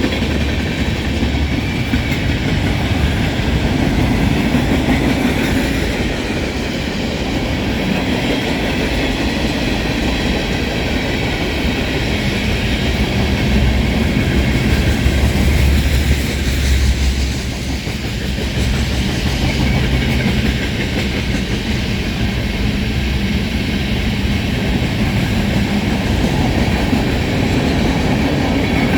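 CSX freight train's cars rolling past, a steady loud rumble and rattle of wheels on the rails.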